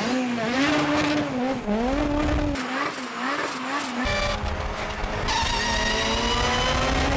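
Car engines revving: an engine note swings up and down several times, then after an abrupt change a car engine pulls steadily, its pitch rising slowly as it accelerates.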